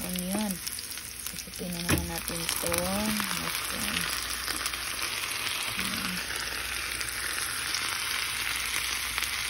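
Sliced mushrooms and onions frying in oil in a stainless steel skillet, a steady sizzle, with one sharp knock about two seconds in.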